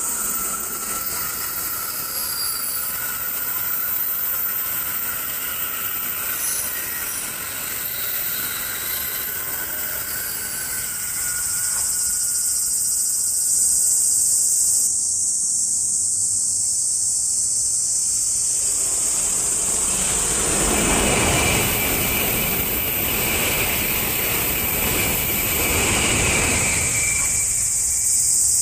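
A train passing: a broad rushing noise swells about two-thirds of the way through and dies away near the end. Under it, a steady high drone of summer insects runs on throughout.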